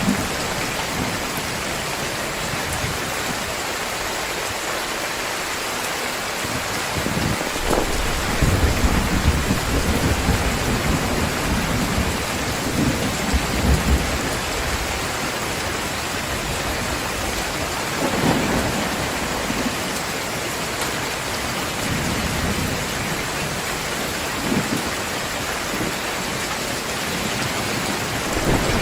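Heavy rain falling steadily, with thunder rumbling low in the background, swelling from about a quarter of the way in to the middle and rolling again a few times later.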